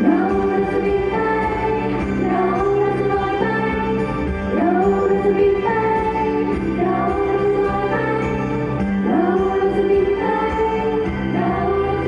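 Pop ballad performed live: female voices singing together over a backing track.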